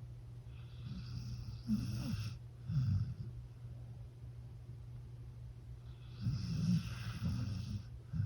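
A dog snoring in its sleep: several snoring breaths in the first few seconds, then a longer one near the end.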